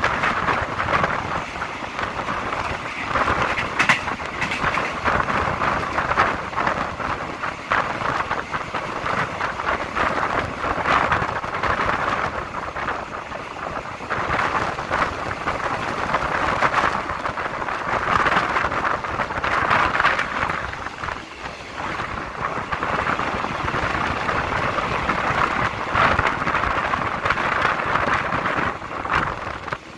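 Commuter train carriage running along the track, heard through an open window: a rushing noise of wind buffeting the microphone over the rumble and clatter of the wheels on the rails, rising and falling in loudness.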